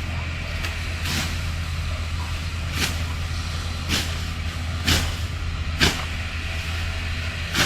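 A series of sharp strikes or swishes, roughly one a second, over a steady low hum, as a jackfruit is taken down from its tree.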